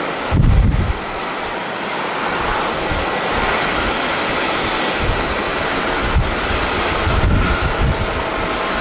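Jet airliner engines running steadily, a continuous rushing noise, with gusts of strong wind buffeting the microphone, heaviest about half a second in and again in the second half.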